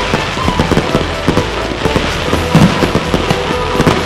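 Aerial fireworks display: shell launches and bursts going off in quick succession, a dense run of sharp bangs and pops with the loudest around the middle and near the end.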